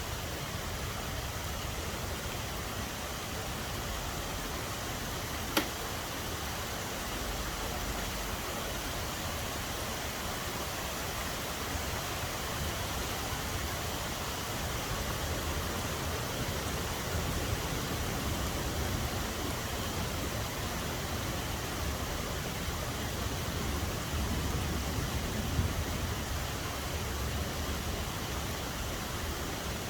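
Steady rain falling, an even hiss of drops. One sharp click about five and a half seconds in, and a fainter one near the end.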